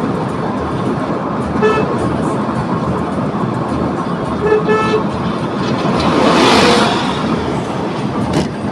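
Steady road and engine noise of a car driving on a highway, with a vehicle horn beeping once about two seconds in and three quick beeps about five seconds in. A loud rushing swell rises and fades around six and a half seconds.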